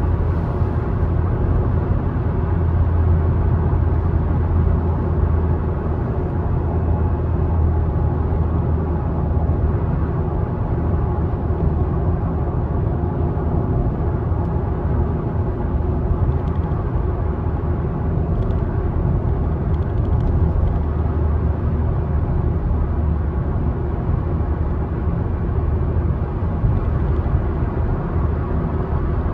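A car driving at a steady speed: a constant low engine hum with tyre and road noise.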